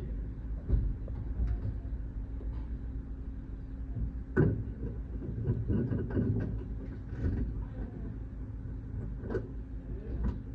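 Machinery running with a steady low hum and a held tone, broken by several knocks, the loudest about four and a half seconds in; in this car-wash setting, most likely the car wash's machinery at work.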